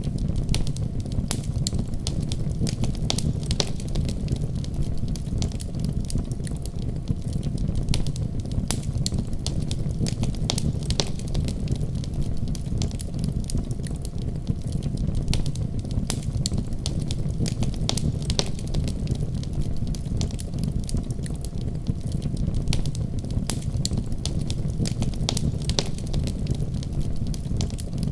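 Wood fire crackling in a fireplace: a steady low rumble of burning with frequent irregular sharp pops and snaps.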